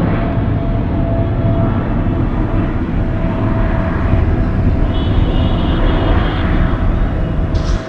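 Jet airliner's engines running loud: a deep steady rumble with a faint steady whine over it.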